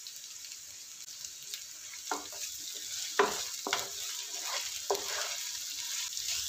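Onions, green chillies and mint leaves sizzling steadily in hot oil and ghee in a nonstick pan. From about two seconds in, a wooden spatula scrapes across the pan several times as they are stirred.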